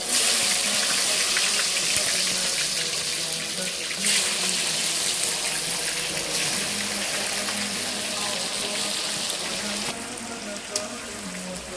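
Food dropped into hot oil in a cooking pan, sizzling loudly from the moment it goes in and easing slightly near the end.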